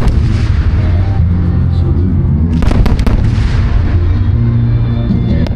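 Fireworks bursting, a cluster of sharp bangs and crackles about three seconds in and another near the end, over a loud song with a steady bass line played for the show.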